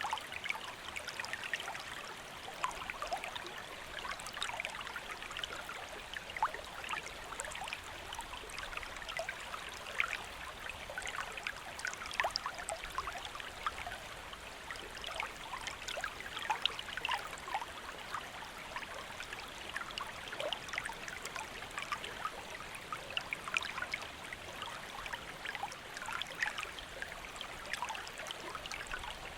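Shallow stream flowing steadily over stones, a continuous rush of water with many small splashes and trickles.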